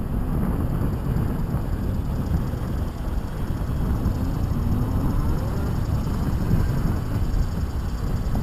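Faint two-stroke dirt bike engines revving up and down over a steady low rumble of wind on the microphone.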